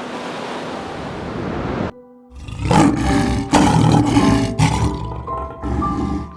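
A steady rushing noise breaks off about two seconds in. Then comes a run of loud, rough animal roars, several in quick succession, over background music with held tones.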